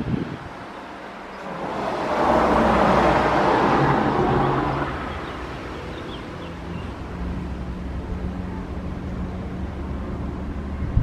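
A vehicle passes close by, swelling and fading over about three seconds, then a steady low engine rumble carries on.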